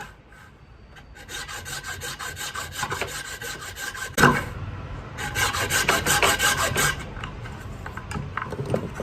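Coconut shell being filed or rasped in quick repeated strokes, in two runs with a short break, and one sharp knock between them.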